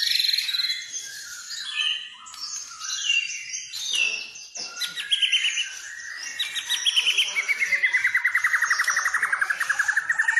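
White-rumped shama (murai batu) singing a varied song of quick whistled phrases and trills. In the second half it goes into a long rapid trill that slides down in pitch and then holds steady.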